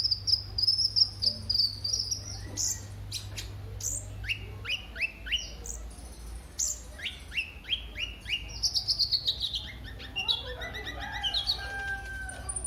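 Song of a kolibri ninja sunbird: a busy series of high, thin chirps and quick downward-sweeping notes, breaking into a fast run of falling notes about eight seconds in. A steady low hum runs underneath.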